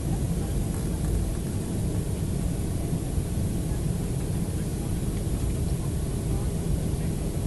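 Steady airliner cabin noise in flight: engine and airflow noise heard from inside the passenger cabin, even and unbroken, heaviest in the low end with a faint steady hum.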